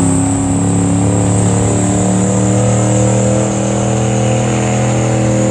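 A gasoline pickup truck's engine is running hard at high revs, its pitch slowly sagging as it pulls the weight sled, with a faint high whine over it.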